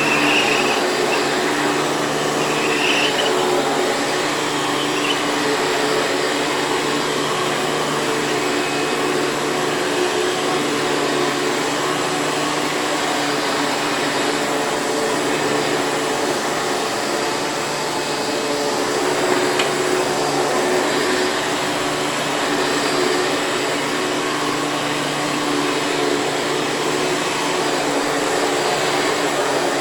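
Hoover Preferred U5095-930 bagged upright vacuum cleaner running steadily: a constant motor hum under the rush of air.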